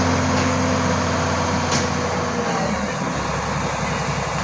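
Sonalika DI 750 tractor's diesel engine running with a steady hum. Its note changes and drops about two and a half seconds in.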